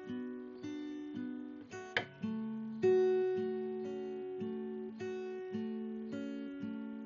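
Background music: an acoustic guitar picking single notes, each one ringing and fading, about two a second.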